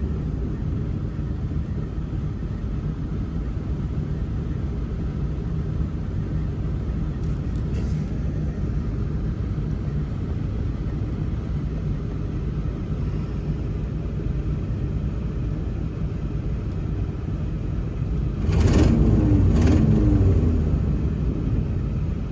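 Old farm truck's engine and road noise as it drives along, a steady low rumble. Near the end the engine revs up harder for a couple of seconds, then eases off.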